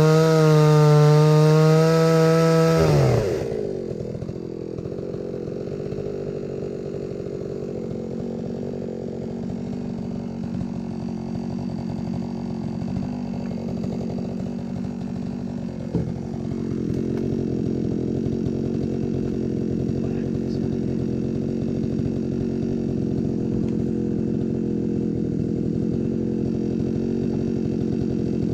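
Older two-stroke chainsaw without a primer bulb, just started from cold, running at high revs, then dropping sharply to a steady idle about three seconds in. A click sounds near the middle, after which it idles slightly louder.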